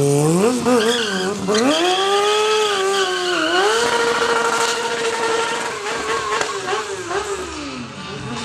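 Motorcycle engine revved hard and held at high revs, its pitch climbing at the start, wavering, holding, then falling away near the end, over a steady hiss of the rear tyre skidding as the bike drifts.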